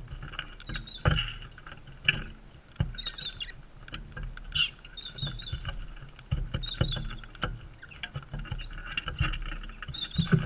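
Parrots feeding at close range: irregular sharp knocks and clicks of beaks on seed and the feeder, with short high chirps scattered among them.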